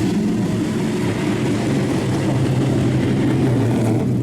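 Racing car engines running with a steady low drone, holding one pitch throughout.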